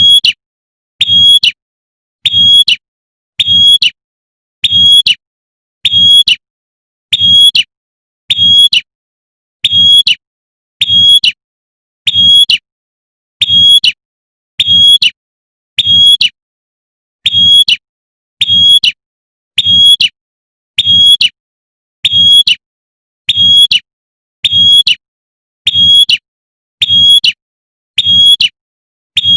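Female prinia (prenjak) giving its 'tembakan' call, the call a female uses to summon a male. It is played as a loop: one short, high call about every 1.2 seconds, evenly spaced, with dead silence between.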